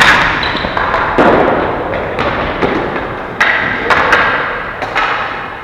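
Ball hockey play: several sharp knocks of sticks and ball striking the rink boards, each one echoing.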